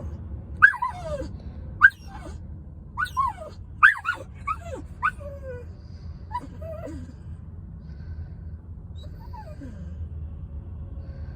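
A dog whimpering and yipping: a run of short high whines, each falling in pitch, which thin out after about seven seconds, with one last faint whine later on.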